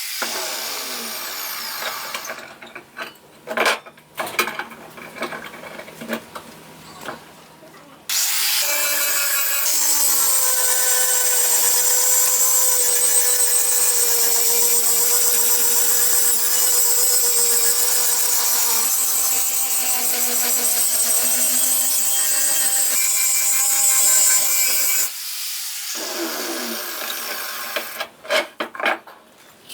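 Irregular scraping strokes of metalworking for several seconds, then a power tool running steadily and loudly for about seventeen seconds before it cuts off abruptly, followed by more scraping.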